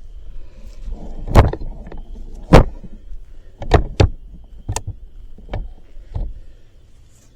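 Hammer blows on the steel of a skid steer wood splitter: seven sharp strikes at uneven spacing, the first two the loudest.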